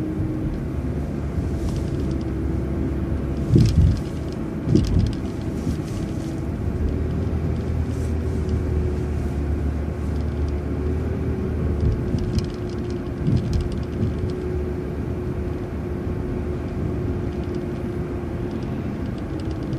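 MCO ViewMaster transit bus running along the road: steady engine and road rumble with a steady whine. A couple of sharp thumps come about four and five seconds in.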